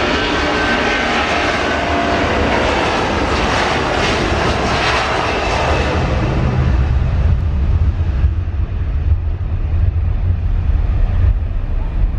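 Jet airliner's engines at takeoff power as the aircraft departs: loud and full, with a faint whine at first. After about six seconds the higher sound fades away and a low rumble is left as the aircraft moves off.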